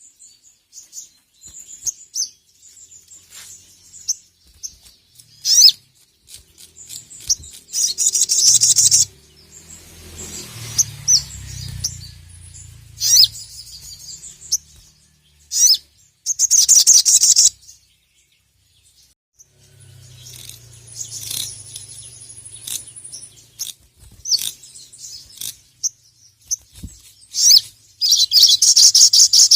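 Ruby-cheeked sunbird (sogon) singing: several loud bursts of fast, high chattering trills, each lasting a second or two, with scattered shorter high calls and pauses between. A low rumble sits underneath twice, about a third of the way in and again past the middle.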